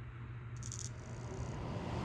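Small reversible exhaust fan running with a steady low hum, and a brief high rattle about half a second in.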